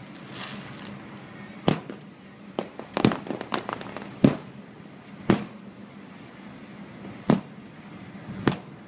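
Aerial firework shells bursting in a string of sharp bangs, about eight in all, with a quick cluster of several about three seconds in.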